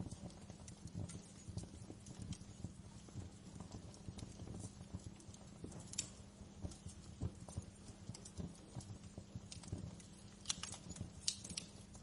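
Wood fire crackling in a fireplace: irregular small pops and crackles over a low steady hum, with a few sharper snaps about halfway through and again near the end.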